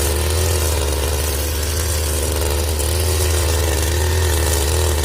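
Petrol brush cutter running steadily at speed, spinning its nylon trimmer line, with a slightly wavering engine pitch.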